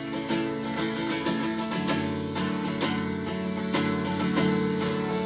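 Instrumental interlude of a worship song: acoustic guitar strumming a steady rhythm over held chords, with no singing.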